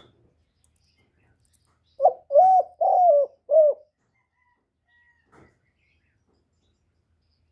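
Male spotted dove cooing: one loud phrase of four short coos about two seconds in, each note rising and then falling in pitch.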